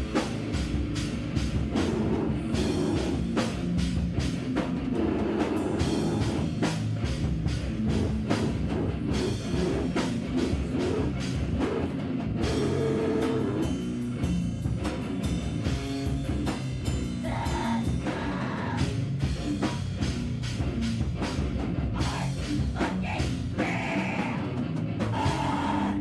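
Live band playing loud heavy rock, with distorted guitar and a drum kit hit hard and fast.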